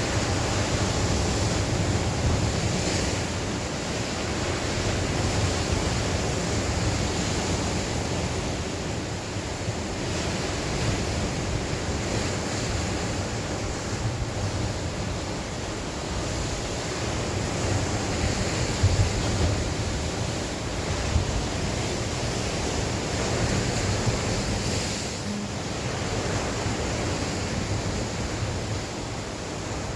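Sea waves breaking and washing on the shore, a continuous surging wash that swells and eases every few seconds, with wind buffeting the microphone.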